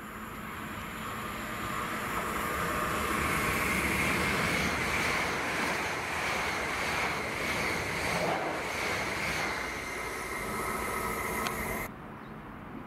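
Heathrow Express Class 332 electric multiple unit passing through at speed: the rush of wheels on rail builds up and holds, with a steady high whine over it, then cuts off suddenly near the end.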